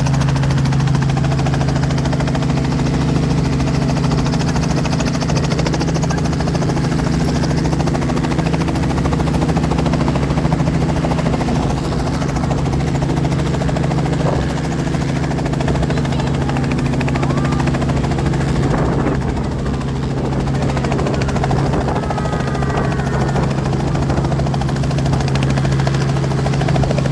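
Helicopter running, a steady loud drone with a strong low hum. Some of its higher tones drop away about two-thirds of the way through.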